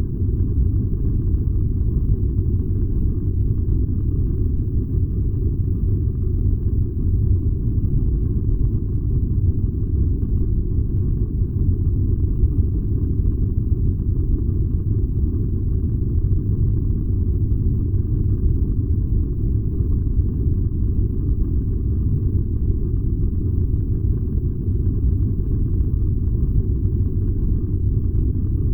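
Furnace running with a steady, deep rumble that does not change.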